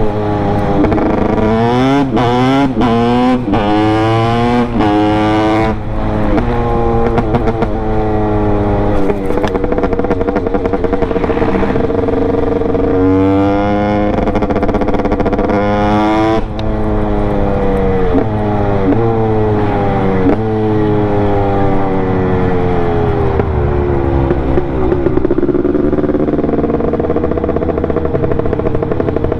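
Honda CR250 single-cylinder two-stroke motorcycle engine revving under way. In the first few seconds the revs climb quickly again and again through the gears, then comes a series of longer pulls that rise and fall.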